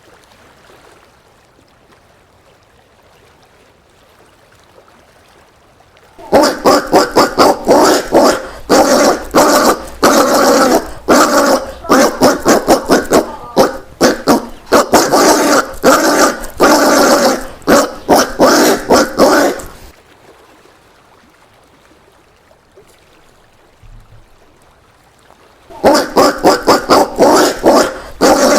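Collared peccary calls: rapid runs of harsh, barking grunts that start about six seconds in, stop after about fourteen seconds, and start again near the end.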